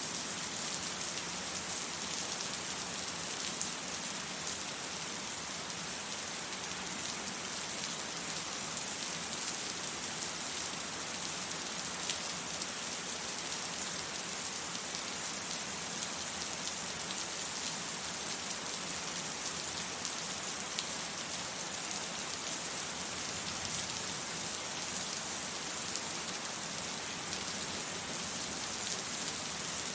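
Steady rain falling: an even hiss, brightest in the high range, with faint scattered drop ticks.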